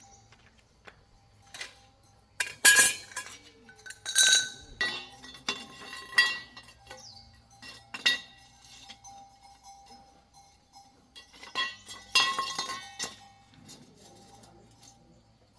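Metal tools or parts clinking and clanking, a string of irregular sharp strikes, several ringing briefly.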